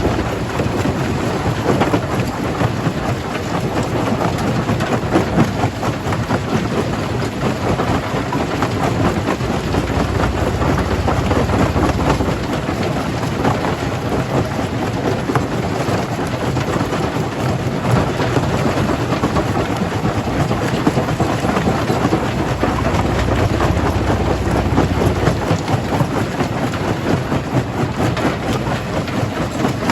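Jaw crusher breaking stone: a continuous rough crackle and rumble of rock being crushed, the deep rumble swelling twice for a couple of seconds.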